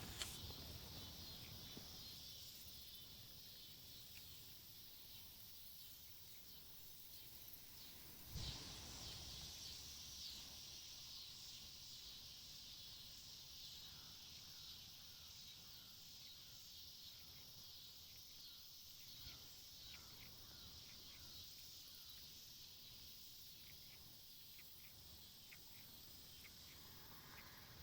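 Faint woodland ambience: a steady high-pitched insect drone, with one soft thump about eight seconds in.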